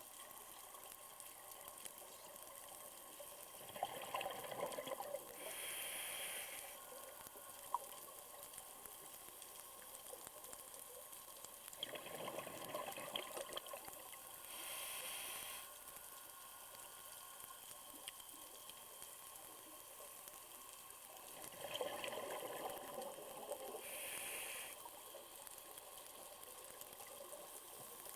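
Scuba diver breathing through a regulator underwater: three breaths about nine seconds apart, each a couple of seconds of exhaled bubbles followed by the short hiss of the regulator on the inhale.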